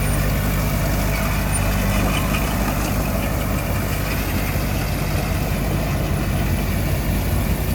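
Heavy diesel engine of earthmoving machinery, a bulldozer or dump truck, running steadily at low revs.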